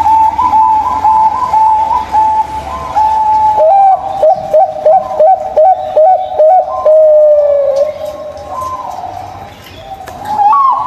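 Zebra dove (perkutut) song: a fast run of short stepped coos, then a slower series of about ten coos with a rising hook, roughly three a second, ending in one longer falling note. After a quieter moment, a fresh run of coos begins near the end.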